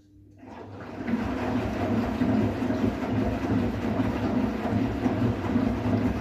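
Bosch WGA252Z0TR front-loading washing machine working through the cooling stage of its drum-cleaning programme: a loud, steady rushing noise fades in about half a second in and keeps churning unevenly.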